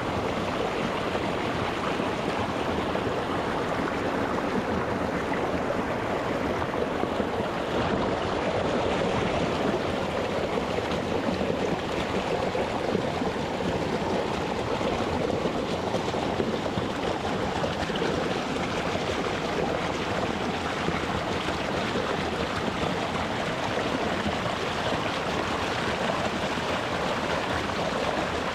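A small rocky mountain stream running over stones, a steady rushing and burbling of water close to the microphone.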